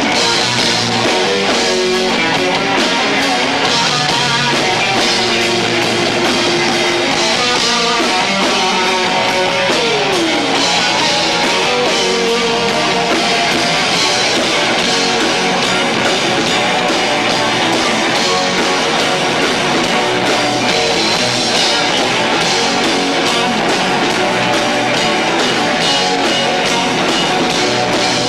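A live rock band with two drummers playing loud and without a break: electric guitar, bass and drums. The low-fi sound comes straight from a camcorder's built-in microphone.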